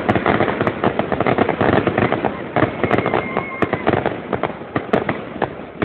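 Fireworks going off in a rapid, dense barrage of bangs and crackles, many a second, which thins a little toward the end. It is likely the show's finale.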